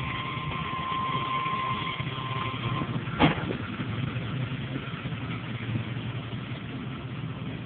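Chevy pickup's engine idling steadily, with a steady high tone that stops about three seconds in, then a single sharp click.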